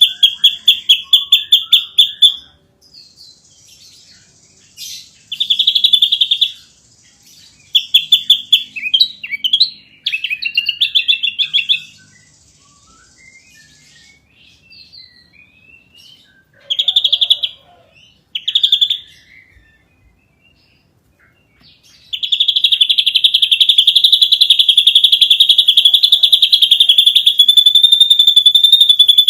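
Ashy drongo singing: rapid bursts of sharp, high, evenly pulsed notes, a few varied whistled phrases in between, then one long unbroken pulsed trill for the last third.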